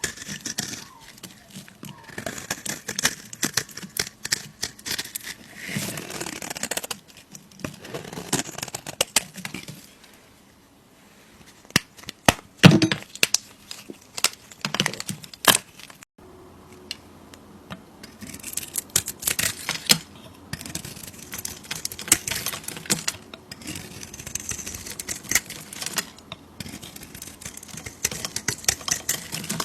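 Bars of soap being cut with a knife: repeated crisp scraping, crumbling cuts with sharp cracks and clicks, the loudest cracks about halfway through.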